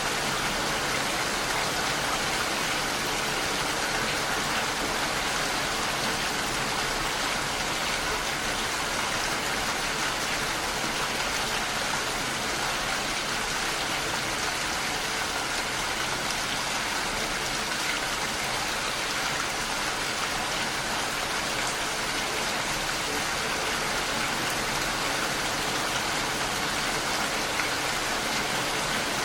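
Heavy rain falling steadily and beating on a window, an even hiss of drops with no let-up.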